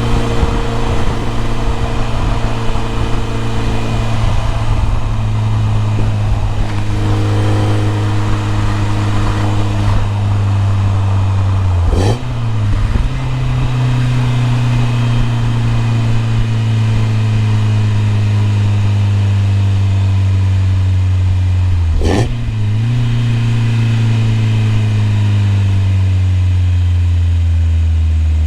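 BMW E30 M3's four-cylinder S14 engine running at steady revs, its note dipping sharply and briefly twice, about ten seconds apart, then drifting slowly lower.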